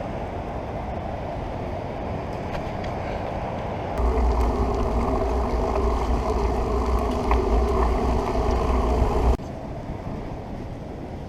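Wind buffeting a moving bicycle's camera microphone over steady road noise. About four seconds in it turns abruptly much louder with a heavy low rumble, and about five seconds later it drops back just as suddenly.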